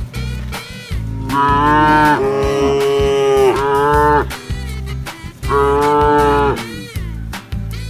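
Cattle mooing: several long, drawn-out moos in quick succession, then another after a short pause, over background music with a steady beat.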